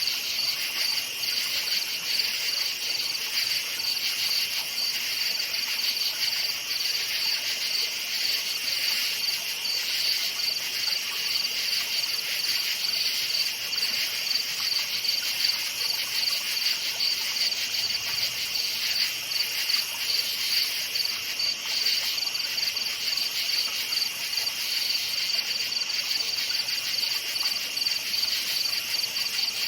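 Crickets chirping in a dense, continuous chorus, a steady high-pitched pulsing trill.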